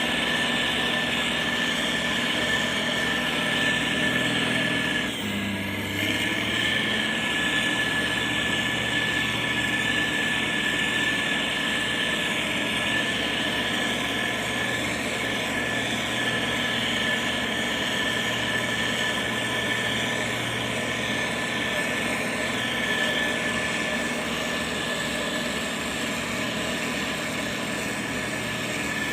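Diesel engine of a heavy road-building machine running steadily, with a constant high whine over the engine note. The sound dips briefly and shifts in tone about five seconds in.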